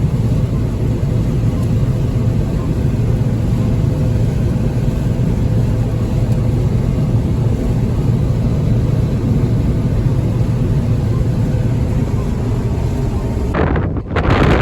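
Combine harvester running steadily while harvesting soybeans, a constant low drone with a faint steady whine above it. About a second before the end, it gives way abruptly to a louder rushing noise.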